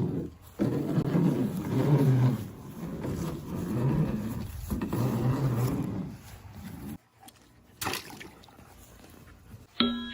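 Growling, engine-like noises from a voice, in several long stretches with short breaks, the kind a child makes playing at monster trucks. Music with woody percussive hits starts right at the end.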